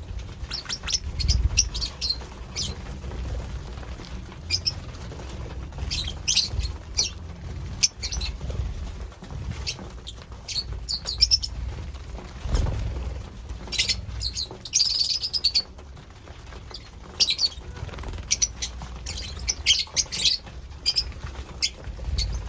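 Pet lovebirds chirping in quick clusters of short, sharp high calls, with low bumps and rustling in between.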